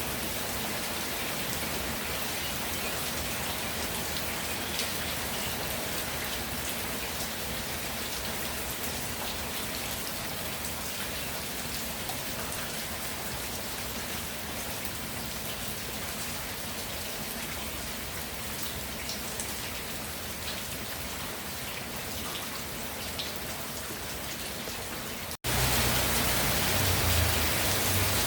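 Steady rain falling, with scattered raindrop patter. About 25 seconds in, the sound drops out for an instant and comes back louder, with more low rumble.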